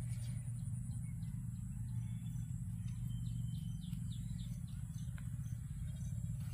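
Small birds chirping in short, scattered calls over a steady low hum, with a thin, steady high-pitched whine above.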